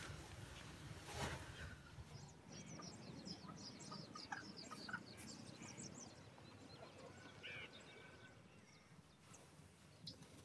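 Faint chirping of birds, with a busy run of short high chirps a few seconds in and scattered calls after, and two dull knocks near the start, the louder about a second in.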